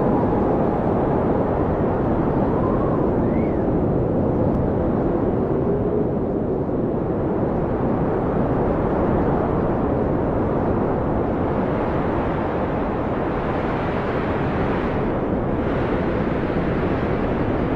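Blizzard wind blowing steadily with a deep rumble and hiss, with faint howling tones gliding up and down in the first few seconds. The hiss grows brighter in the last third.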